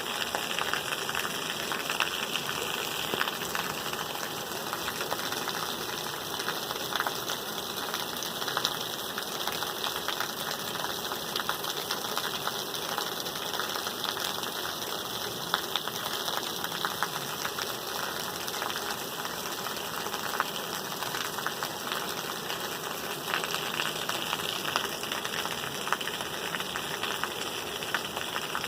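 Steady rain falling, a dense even hiss scattered with many small drop ticks.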